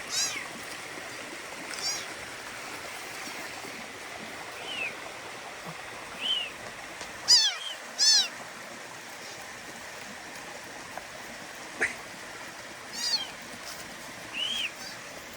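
Kittens mewing: short high-pitched mews every second or two, the loudest pair about halfway through, over the steady rush of a stream.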